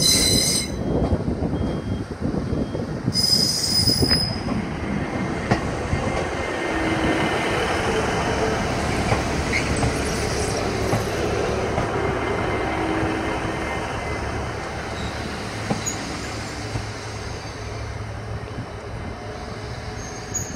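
Northern Class 150 diesel multiple unit on the move: its wheels squeal sharply in the first second and again about three seconds in. Then its diesel engines and wheels on the rails run steadily, fading as the train pulls away.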